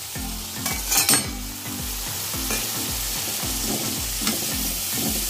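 Onions and tomatoes sizzling in hot oil in a kadhai while a steel ladle stirs them, with a few sharp clicks of the ladle against the pan about a second in.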